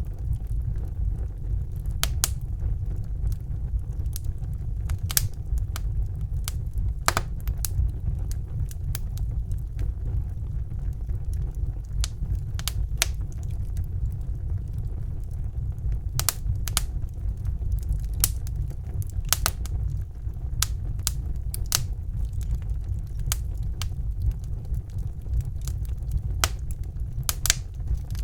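Wood fire burning in a fireplace: a steady low rumble of the flames under irregular sharp crackles and pops, some in quick clusters.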